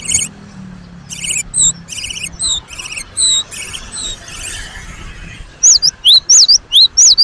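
Cinereous tit (gelatik batu) calling: bouts of short, high, buzzy chattering notes, then from about five and a half seconds in, loud, sharp whistled notes repeated about three times a second.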